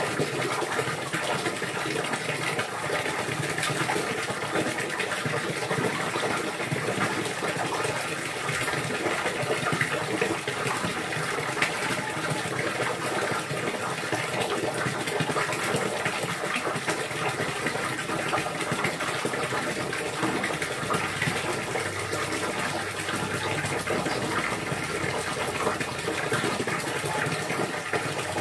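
Steady rush of running, splashing water, an even gush that does not change.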